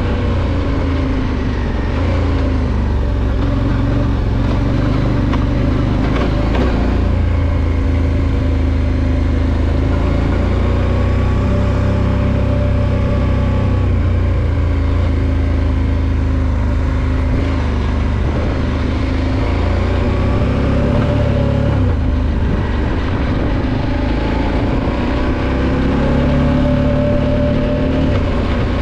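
Motorcycle engine running under way on a gravel track, its note rising and falling with the throttle.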